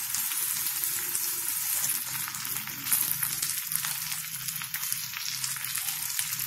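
Spice-coated okra and sliced onions sizzling in hot mustard oil in a kadhai: a steady crackling fry.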